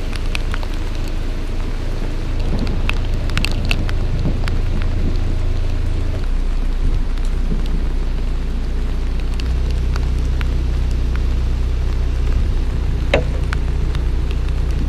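Rain falling, with scattered drops tapping sharply on the narrowboat, over the steady low drone of the boat's engine running. The drone shifts slightly about 6 seconds in and again near 9 seconds.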